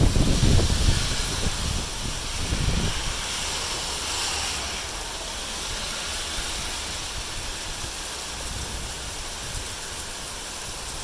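Wind gusts buffeting the microphone for the first few seconds, settling into a steady hiss of heavy wind-driven rain.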